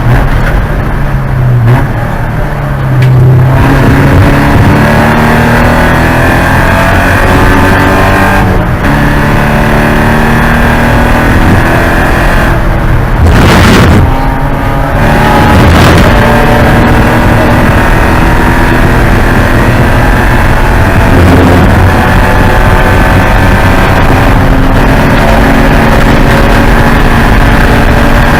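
Porsche 944 Spec race car's four-cylinder engine running hard at racing speed. Its pitch climbs through the gears and drops back in brief lifts about two seconds in and again near the middle, with a short rushing noise near the middle.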